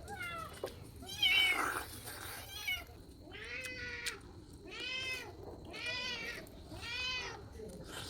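A cat meowing over and over, about one meow a second, each rising and then falling in pitch, with a louder, rougher meow just over a second in.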